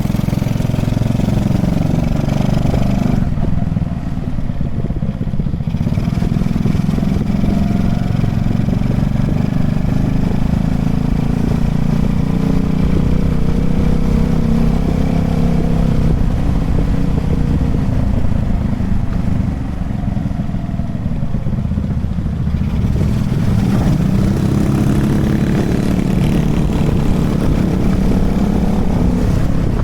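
Honda Chaly minibike's small single-cylinder four-stroke engine running on the move, its pitch rising and falling with throttle and gear changes. It eases off twice, about 3 seconds in and again about 20 seconds in.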